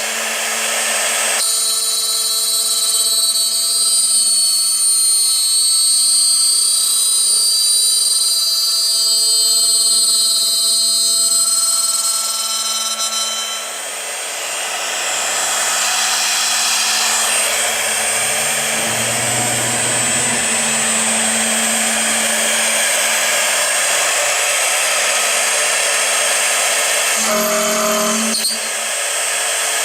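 Aluminium-profile CNC drilling and milling machine running, its spindle giving a steady whine of several tones. About halfway through, the sound turns rougher and noisier, with a low hum for a few seconds.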